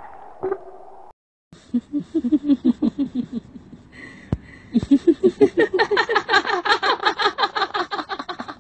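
Bouts of laughter made of rapid, rhythmic ha-ha pulses, several a second: a short bout after a brief dead-silent cut, then a longer, louder run starting about five seconds in.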